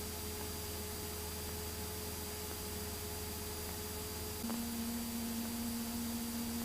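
Steady low hum of the Cessna 172's engine and propeller heard through the cockpit intercom during the climb, with a hiss and a thin steady whine that drops to a lower pitch about four and a half seconds in.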